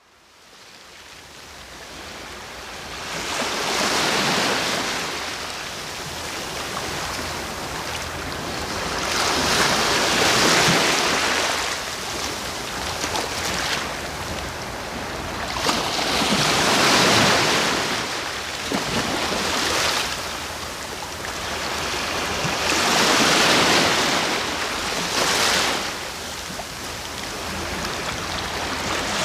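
Sea waves breaking and washing ashore, a surge about every six or seven seconds with the hiss of surf between. The sound fades in from silence over the first few seconds.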